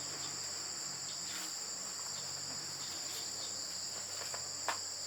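Steady high-pitched chorus of insects trilling without a break, with a few faint clicks and one sharp tap near the end.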